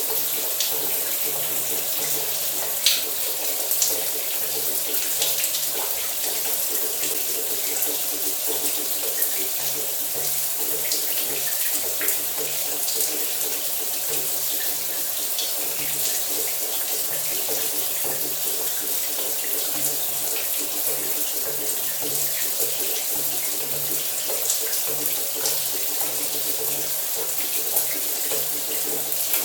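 Shower running steadily, water spraying and splashing with small scattered drips and taps.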